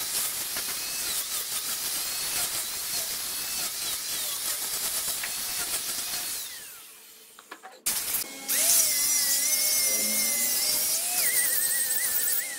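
Wood lathe running with a tool working the spinning redwood, a dense, hissy cutting noise that fades away about two-thirds of the way in. Background music with wavering melodic lines follows for the last few seconds.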